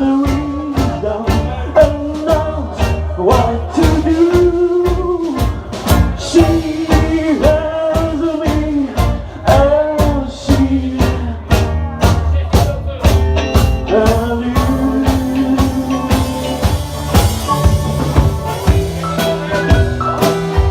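Live rock band playing an instrumental passage: a lead melody with bending, sliding notes over bass and a steady drum beat.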